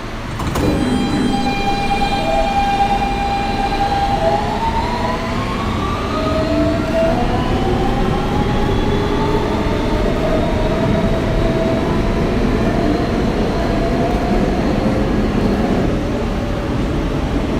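New York subway doors closing with a knock and a ringing chime, then the Siemens traction motors of an R160B car whining and rising in pitch as the train pulls out and accelerates, over the steady rumble of wheels on rail.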